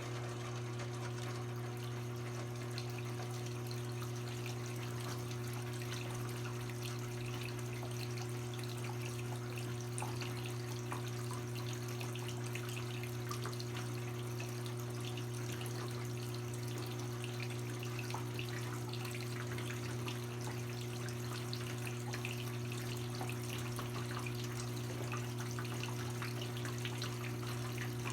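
Brastemp BWK17 17 kg washing machine filling with water: a steady electric hum from the water inlet valve under the sound of water running and splashing into the tub.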